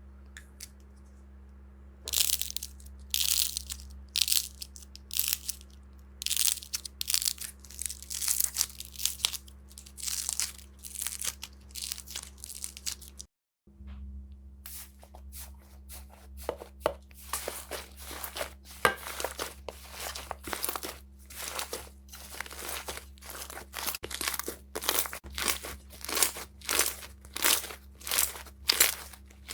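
Slime being squeezed and stretched by hand, giving repeated crunchy, crackling bursts. The bursts come about once a second at first, then after a brief break about halfway through they come faster, roughly twice a second. A faint steady hum runs underneath.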